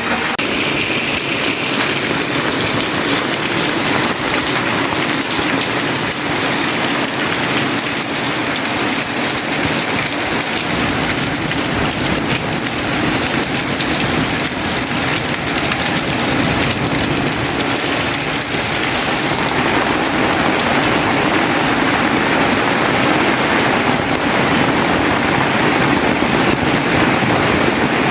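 Heavy rain pouring steadily, a dense, even hiss of a downpour that grows slightly louder in the second half.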